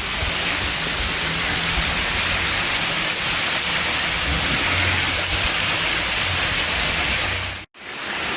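Waterfall rushing close by: a steady, loud hiss of falling water, broken by a brief cut to silence near the end.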